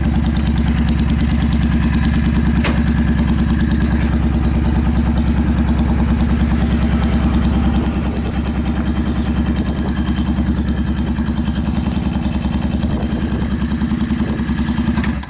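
Yamaha DragStar 400's air-cooled V-twin idling steadily with an even pulsing beat through twin short trumpet-style exhaust pipes, with no abnormal noise. It gets a little quieter about eight seconds in and cuts off abruptly near the end.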